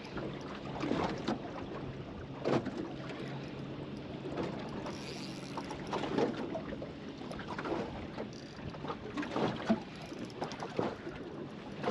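Small waves lapping and slapping irregularly against the hull of a small boat, with wind buffeting the microphone.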